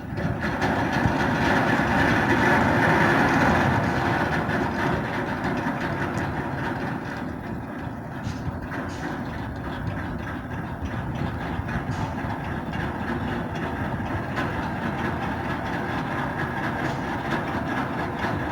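Heavy ship machinery running with a steady rumble and a faint hum, a little louder at first and then easing slightly.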